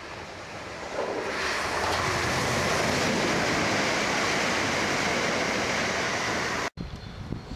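Southern Class 377 electric multiple unit passing through the station at speed: a rushing noise of wheels on rail and moving air that builds about a second in and holds loud and even, then cuts off suddenly near the end. Wind buffets the microphone.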